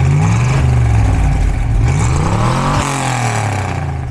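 Classic Mini's 1.3-litre MPI four-cylinder engine running through a sport exhaust, revved up and back down twice, the second and bigger rev peaking about three seconds in.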